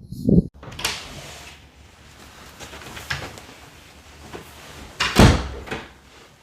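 Rustling noise with a few light knocks, and one loud, deep thump about five seconds in.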